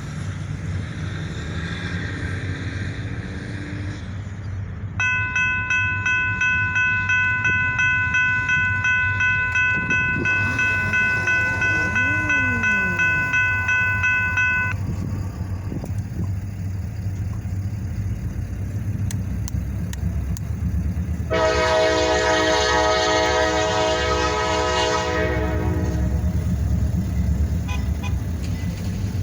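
Low rumble of EMD SD40-2 diesel locomotives with a bell ringing steadily about twice a second from about five seconds in to nearly fifteen seconds. About twenty-one seconds in, the locomotive's multi-note air horn sounds a blast of about four seconds, and it sounds again right at the end.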